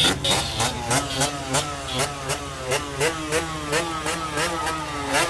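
Small motorcycle engine revved in quick repeated rises of pitch, about three a second, with sharp evenly spaced clicks over it.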